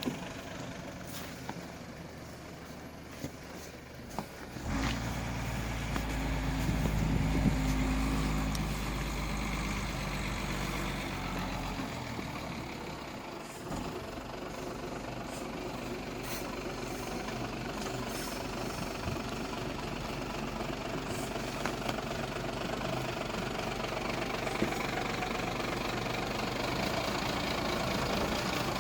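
Diesel truck engine running steadily, with a deeper, louder engine note from about five seconds in until about twelve seconds in.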